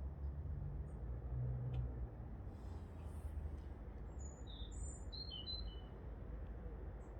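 A small bird gives a quick run of short, high chirps about halfway through, over a steady low rumble.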